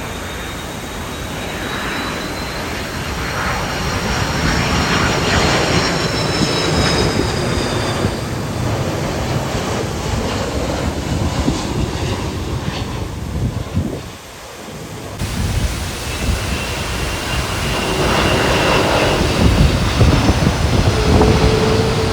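Jet aircraft engine noise: a loud, steady rumble with a high whine that drifts slightly in pitch. It drops away briefly about two-thirds of the way through, then comes back.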